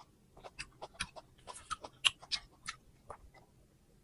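Someone chewing crunchy fresh fruit close to the microphone: a string of short, irregular crunches and wet mouth clicks.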